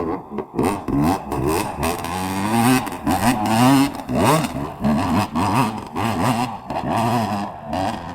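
Dirt bike engine revving hard on a hill climb, its pitch rising and falling over and over as the throttle is worked.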